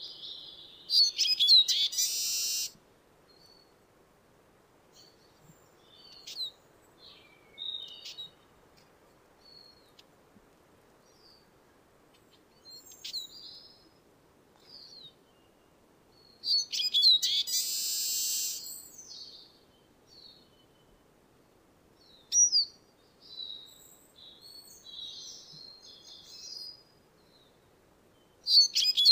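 Eurasian siskin singing: fast twittering phrases that each end in a drawn-out buzzy wheeze, three times, with short chirps between them.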